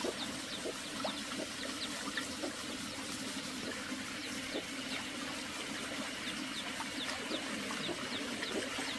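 Steady trickling water with many short, high, falling chirps from small birds scattered over it.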